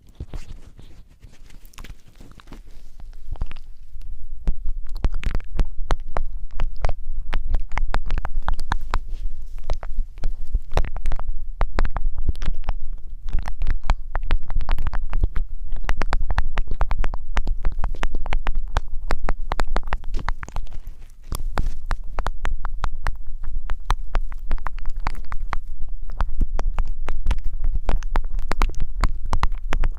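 Close-miked ASMR rubbing and scratching on the microphone, with dense irregular crackles over a low rumble; it builds over the first few seconds and eases briefly a little past two thirds of the way through.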